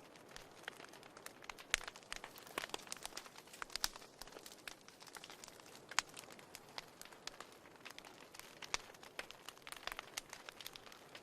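Wood fire burning in a fireplace, crackling with quick, irregular pops over a soft hiss. A few sharper pops stand out, one under two seconds in and one about six seconds in.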